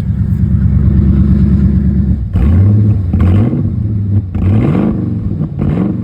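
Cold engine idling steadily, then revved in four quick blips from about two seconds in, sounding healthy.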